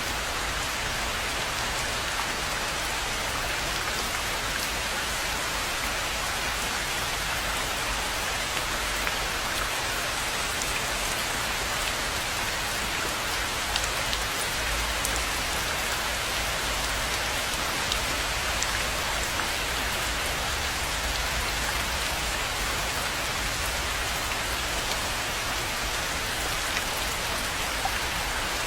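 Steady rain falling on a rainforest pond, with scattered louder single drops standing out.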